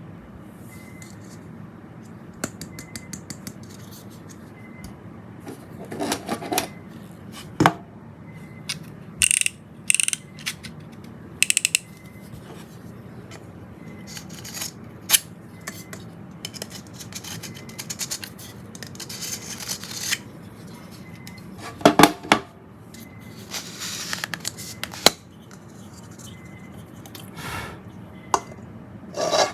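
Small hard parts being handled on a work surface: scattered clicks, taps and short scrapes, with a cluster of sharp knocks about two-thirds of the way through, over a steady low hum.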